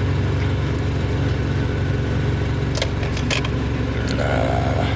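Car engine running at a steady low hum, heard from inside the cabin, with a few light clicks about three seconds in.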